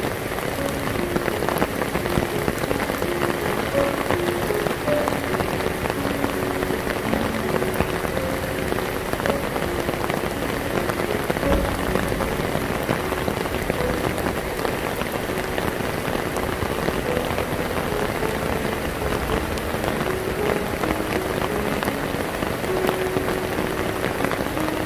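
Heavy rain pouring steadily onto hard surfaces, a dense even hiss without a break.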